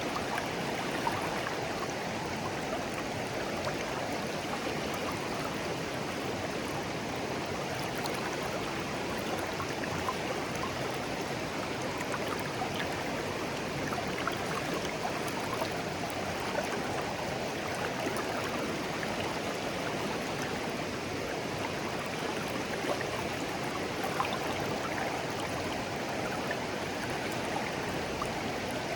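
Shallow clear stream flowing steadily over stones, a continuous babble with small scattered splashes and trickles.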